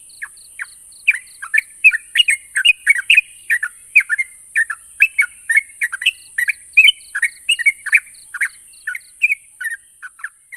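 Yellow-vented bulbul (trucuk) singing: a rapid, chattering run of short, bubbly, down-slurred notes, about four or five a second, over a steady high hiss.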